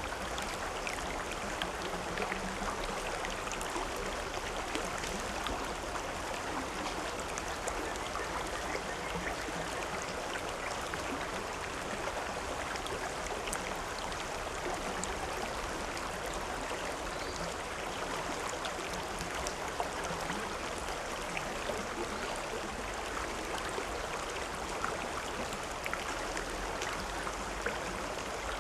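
River or stream water flowing and splashing over rocks: a steady rushing with many small splashes and gurgles.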